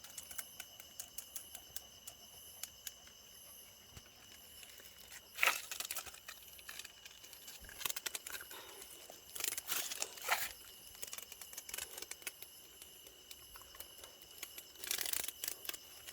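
A cicada giving short, raspy buzzes several times, against faint fine ticking.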